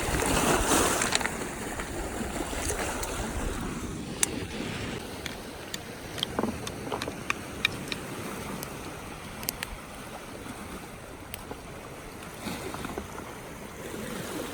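Sea waves washing on a stony shore with wind on the microphone, swelling louder in the first second. Scattered small clicks and taps, like stones being knocked, come through the middle.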